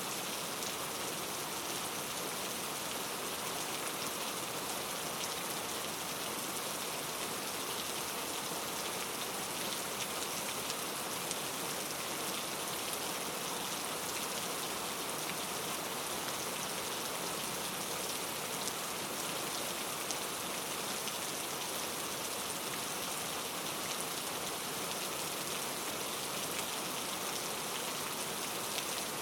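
Steady rain falling on a surface: an even hiss with many fine drop patters.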